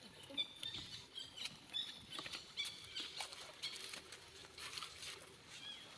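A young monkey giving a string of short, high squeaks, several a second, with scattered clicks and pattering between them.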